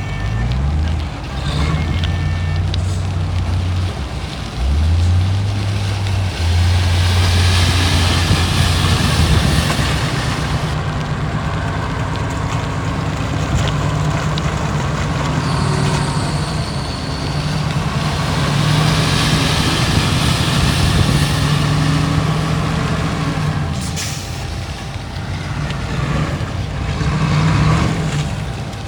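Diesel engines of heavy earthmoving machinery running and changing pitch as they work, with a broad hiss that swells and fades.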